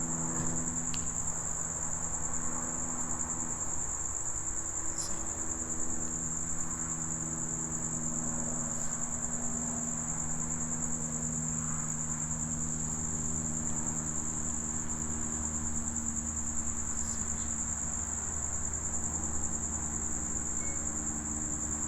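Crickets trilling in one steady, unbroken high-pitched chorus, with a faint low hum underneath.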